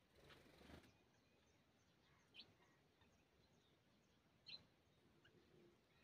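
Near silence with two brief, faint high chirps from a small bird, about two and a half and four and a half seconds in, after a short rustle at the start.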